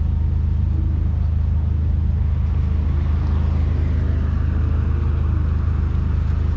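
A car engine running with a steady low drone. Near the middle, a fainter sound rises and then falls in pitch over a couple of seconds.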